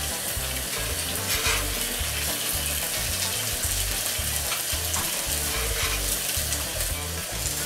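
Burger patties and potato pieces frying on a hot griddle plate over a charcoal fire, a steady sizzle.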